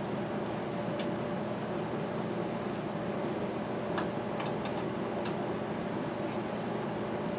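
A steady mechanical hum, like a fan or other running machine, with a few light clicks from small parts being handled, about a second in and again around four to five seconds in.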